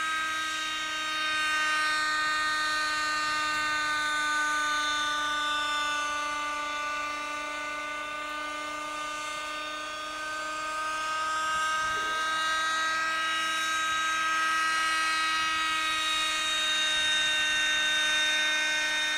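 Schlüter Magic radio-controlled model helicopter running in flight: a steady, high-pitched engine whine. It fades a little in the middle and swells again as the model moves about.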